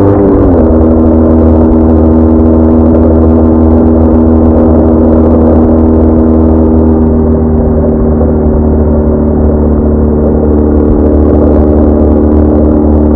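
BMW R1200R boxer-twin engine droning at a steady cruise. The revs ease down slightly in the first half-second, then hold even.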